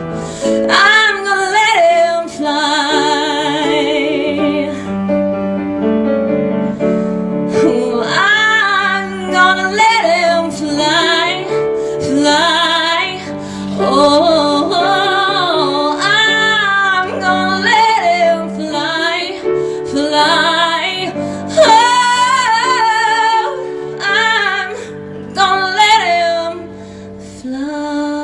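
A woman singing long, wavering held notes over piano accompaniment, a live cabaret performance of a country ballad.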